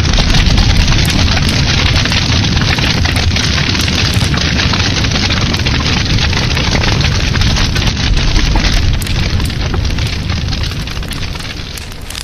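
Wood fire burning in a fireplace: a dense low rumble of the flames with constant crackling and small pops, easing off a little near the end.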